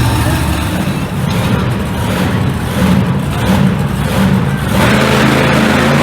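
Monster truck engine running loud and revving in repeated surges.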